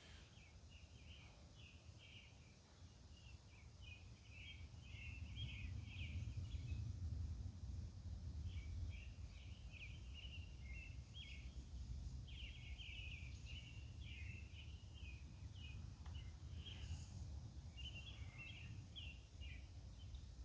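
Outdoor night ambience: rapid, irregular high chirping calls keep going throughout, over a low rumble that swells a few seconds in and then holds steady.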